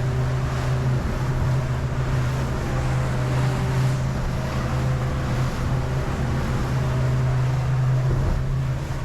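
Boat outboard motor running steadily under way, a constant low hum with wind buffeting the microphone and water rushing along the hull.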